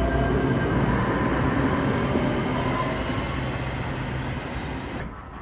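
Metro light rail train's running noise along the rails, with a faint whine at first, gradually dying away.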